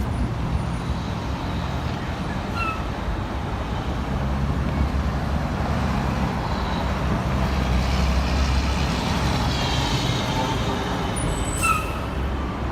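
Street traffic: a steady rumble of passing vehicles that swells for a few seconds in the middle, with a brief high squeal near the end.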